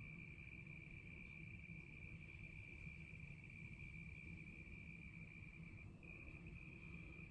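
An insect trilling in one steady, unbroken high tone that falters briefly about six seconds in, over a faint low rumble.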